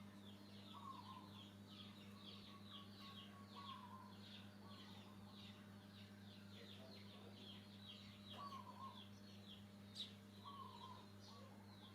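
Faint bird chirping: many short, falling high notes in quick runs, mixed with lower call notes every second or two, over a steady low hum. A single sharp click comes near the end.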